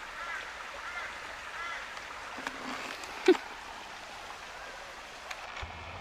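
A bird giving short, repeated high calls, about one every 0.7 s, over a steady wash of running water, with a single sharp squeak-like sound about three seconds in.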